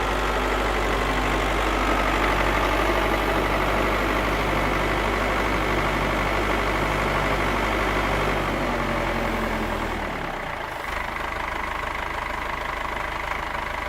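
Engine sound of a cartoon vehicle, running steadily at idle. About nine seconds in, its pitch sinks and the low hum drops away, leaving a lighter steady sound.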